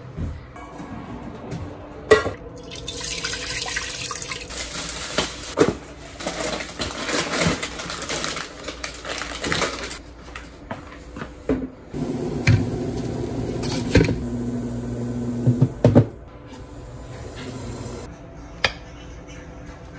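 Water running from a tap for several seconds, splashing, with a few knocks. Later a few seconds of a steady humming sound.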